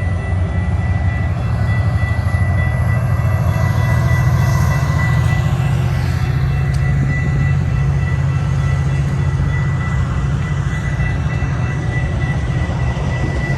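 Metra commuter train's diesel locomotive throttling up and pulling away from the station, with a heavy low engine throb and rail noise, while the level-crossing bells keep up a steady high ring.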